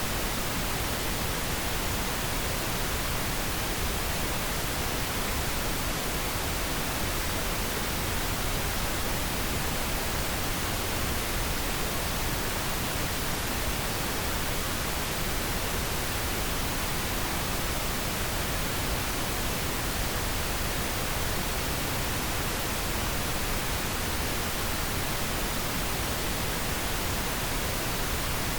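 Steady synthetic pink noise: an even, unchanging hiss spread across the whole range, with no tones or events.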